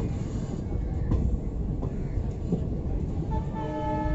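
Train running on the rails, a steady rumble with a few knocks. About three seconds in, a train horn sounds and is held on one steady note.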